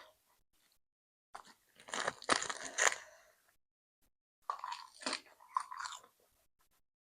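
A person chewing crunchy food, with crisp crunching in two spells of about two seconds each and a pause between.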